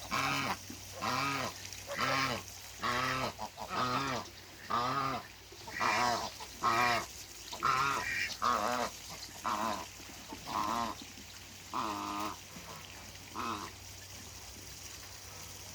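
African goose honking over and over, about one call a second, the calls spacing out and stopping near the end.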